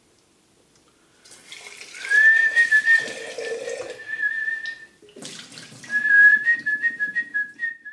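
Whistling: two long held notes at nearly the same pitch, the second wavering slightly in small steps, over a rushing hiss. The first note starts about two seconds in, after a moment of near silence.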